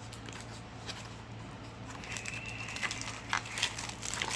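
Small squished box being opened by hand: packaging crinkling with a few light clicks, mostly in the second half.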